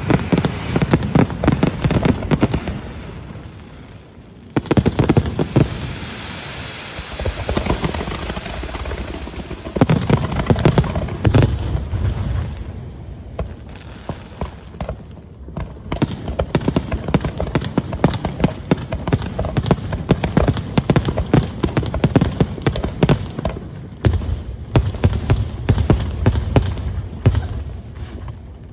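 Aerial fireworks display: shells bursting in rapid volleys with booms and crackling. The volleys ease off briefly about four seconds in and again around the middle, then pick up into a long, dense barrage.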